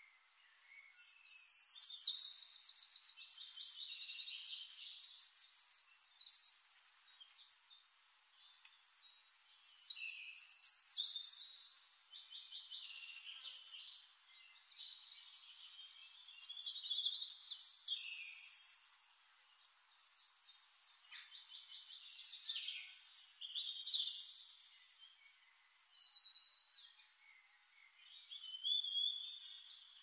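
A songbird singing in phrases of rapid high trills and whistles, each lasting a few seconds and coming back about every six seconds, five times in all.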